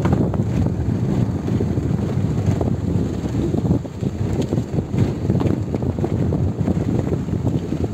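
A moving car: steady road and engine noise, with wind buffeting the microphone.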